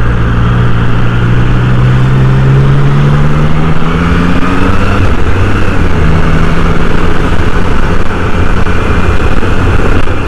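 Triumph Trident 660's inline three-cylinder engine pulling away and accelerating, its pitch rising for about five seconds, then dropping at a gear change and holding steady, with wind noise over it.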